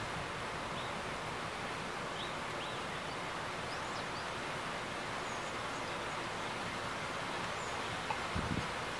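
Steady hiss of rain falling, with a few faint bird chirps and a brief low thump near the end.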